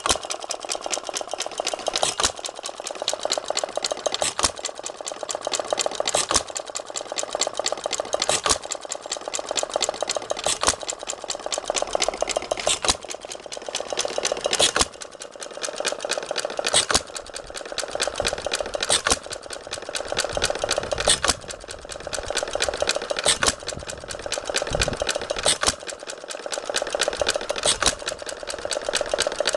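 Briggs & Stratton FH engine converted to hit-and-miss, running on buzz-coil ignition: a sharp firing bang about every two seconds, with steady fast clattering as it coasts between firings.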